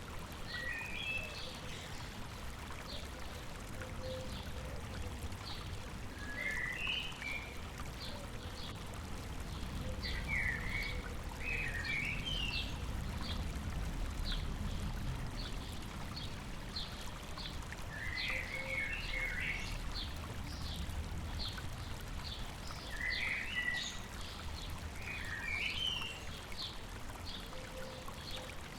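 A river flowing steadily, with birds singing over it. One bird repeats a short high chirp about one to two times a second, and another sings brief warbled phrases every few seconds.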